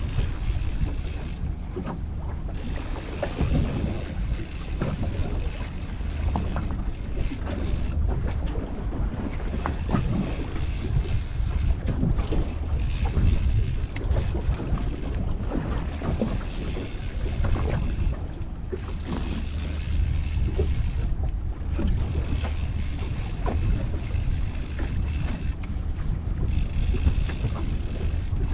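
Wind buffeting the microphone over choppy sea, with water slapping and knocking against a small boat's hull.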